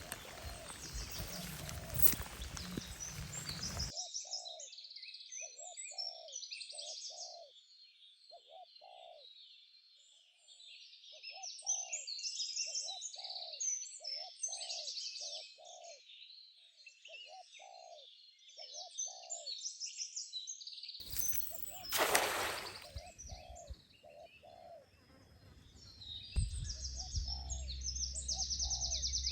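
Many birds chirping and twittering, with a lower, rounder call repeated in quick runs of notes. About three-quarters of the way through comes a brief, loud rush of noise.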